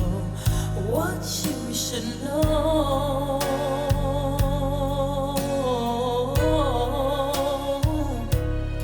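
A song playing through Elfton Vegas II four-way loudspeakers: a singer holds one long note with vibrato over a steady bass line and regular drum hits.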